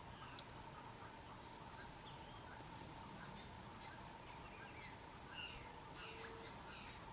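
Faint, steady insect drone with two unbroken tones, one middling and one high, and scattered short bird chirps over it.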